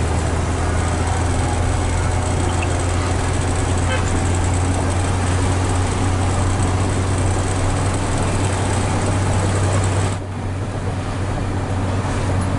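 Hino 500 FM320TI tractor truck's diesel engine running under way, heard inside the cab as a steady low drone with road noise. About ten seconds in, the higher noise falls away and the level dips briefly before building again.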